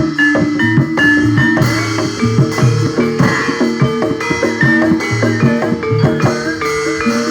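Javanese gamelan music accompanying a barongan dance: metallophones struck in steady interlocking melody over beaten drums.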